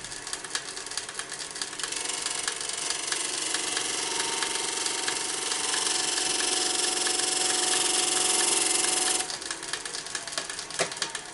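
Wood lathe running with a turning tool cutting into the spinning wooden box blank: a steady hiss of the cut builds over several seconds and stops suddenly as the tool is pulled away, with light clicks and taps before and after.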